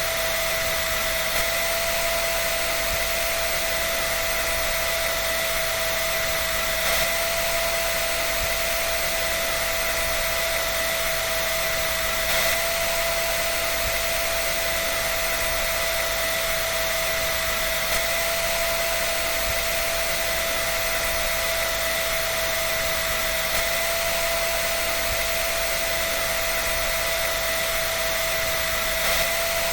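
An electric dryer running steadily: a constant rushing fan noise with a steady whine, and a faint bump about every five and a half seconds.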